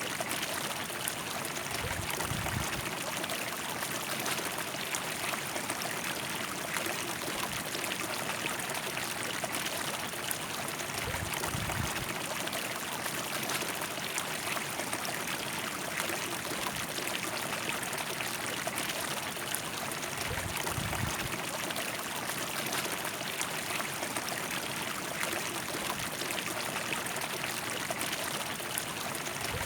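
River water flowing in a steady, even rush of running water, with three brief low rumbles spaced about nine seconds apart.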